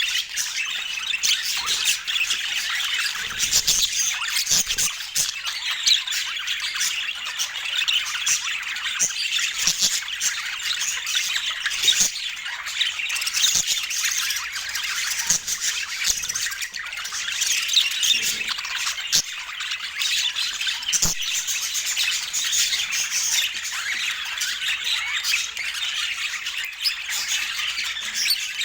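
Budgerigars chattering and squawking without a break, a dense mix of high warbles and chirps, with a few faint clicks.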